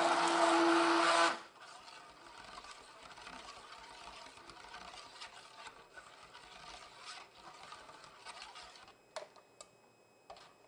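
Stick blender running steadily in soap batter, switched off about a second in; after that only faint handling noise and a few light clicks.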